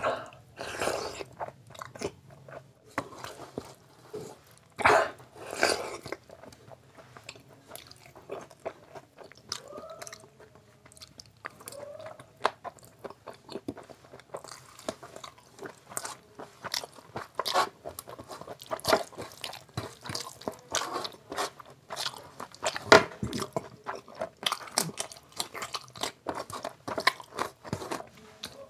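Close-miked chewing and biting of rice mixed with curry eaten by hand: a dense, irregular run of short mouth clicks and smacks.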